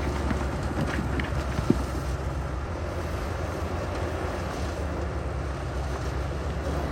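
Heavy diesel construction machinery running steadily with a deep, even engine hum, and one sharp knock about a second and a half in.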